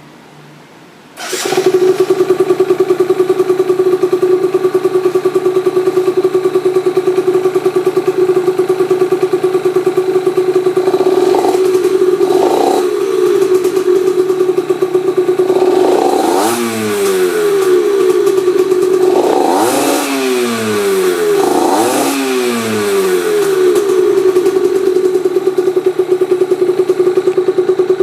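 A Yamaha TZR50R's 50cc two-stroke single, breathing through an aftermarket expansion chamber, starts about a second in and settles into a steady idle. Around the middle it is given about five short throttle blips, the revs falling back to idle after each, then it idles steadily again.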